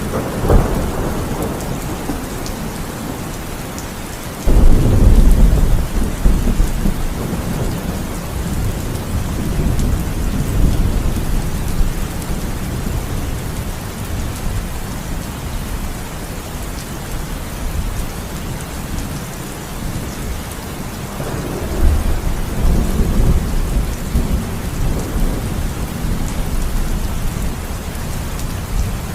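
Heavy rain falling steadily, with thunder: a rumble at the start, a sudden loud crack about four and a half seconds in that rolls on for several seconds, and another long rumble from about 22 seconds in.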